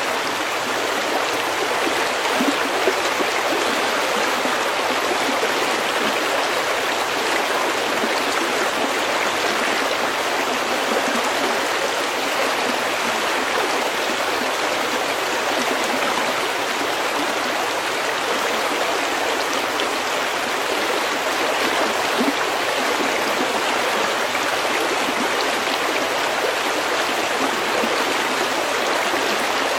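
A stream of snowmelt water running over pebbles in a steady, even rush, with a few small splashes and gurgles standing out now and then.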